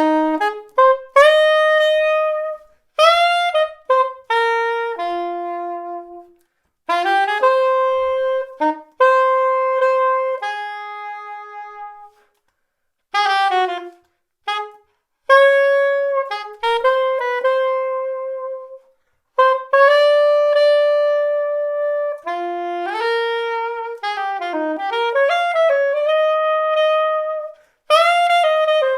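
Yanagisawa SC-901 curved soprano saxophone with an Otto Link Tone Edge mouthpiece, playing an unaccompanied jazz melody, one note at a time, in phrases of a few seconds with short pauses between them.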